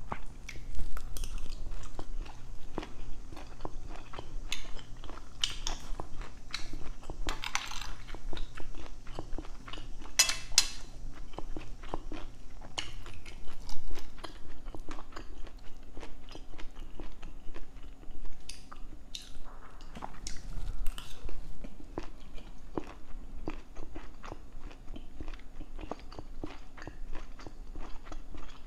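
A person biting and chewing cooked long beans with rice: steady mouth sounds made of many short crunchy clicks, with a couple of louder ones about seven and ten seconds in.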